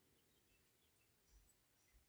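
Near silence: faint background noise only.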